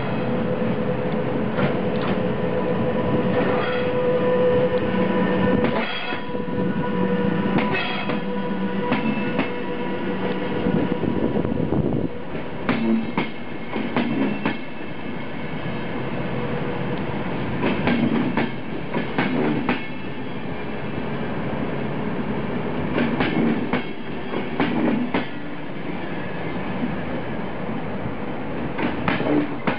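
Electric-hauled passenger train of double-deck coaches passing close by at low speed, with continuous running rumble. From about twelve seconds in, groups of sharp wheel clacks come every few seconds as each coach's bogies roll over the rail joints.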